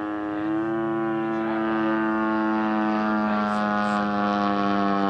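Large RC model airplane's engine and propeller running at a steady pitch, with a slight rise about half a second in.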